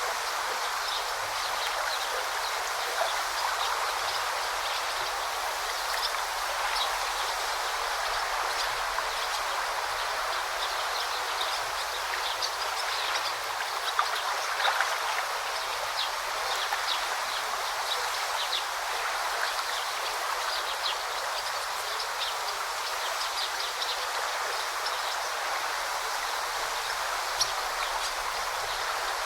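Forest river flowing steadily, an even wash of running water, with many short, high bird chirps scattered through it.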